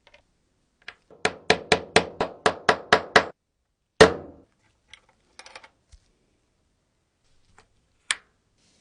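Small hammer tapping on a Zippo lighter's metal parts: a quick run of about nine taps, some four a second, then one harder ringing blow, followed by a few light clicks.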